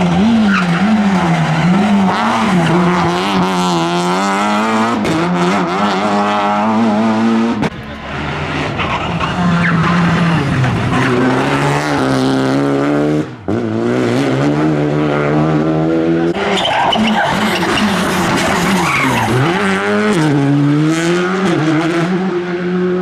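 Rally car engine at hard throttle, its pitch climbing and dropping over and over as it is revved through the gears and lifted for corners, with two short breaks about 8 and 13 seconds in.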